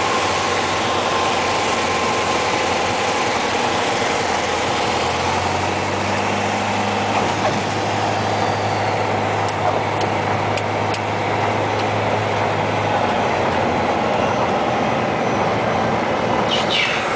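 Light airplane's engine and propeller running steadily, heard inside the cabin as a constant loud drone with rushing air noise; a low hum grows stronger for several seconds in the middle.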